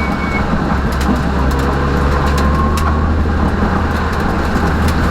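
Peugeot rally car's engine and road noise heard from inside the cabin at stage pace: a steady loud drone with a dense wash of tyre noise and a few short sharp clicks.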